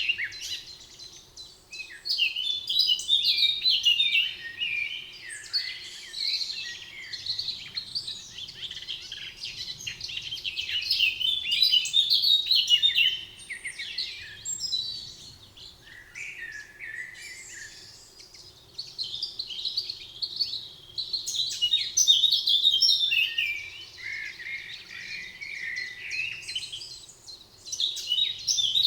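Songbirds singing: rapid chirping and warbling phrases, several birds overlapping, in bouts that swell and fade every few seconds.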